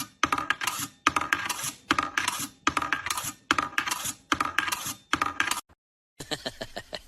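Rapid clicking and clattering in about eight bursts, each under a second long and following one another in a steady rhythm. The clicking cuts off suddenly near the end, and after a short pause a different sound begins.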